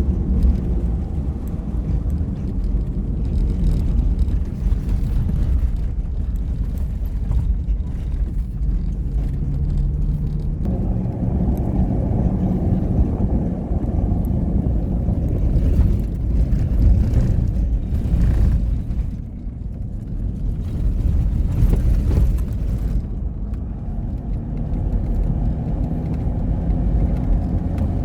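A motor vehicle running with a steady low rumble; it grows fuller about eleven seconds in.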